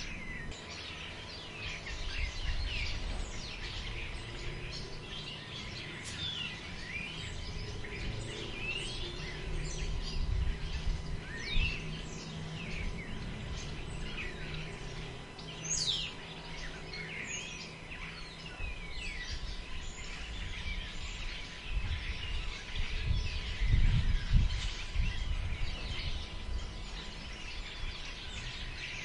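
Many small birds chirping and calling over one another, over the low rumble of wind gusting through the forest, which swells about ten seconds in and again towards the end.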